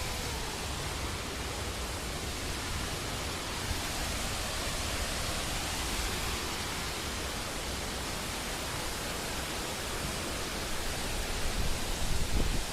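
Waterfall rushing steadily, a continuous hiss of falling water, with some louder low rumbling near the end.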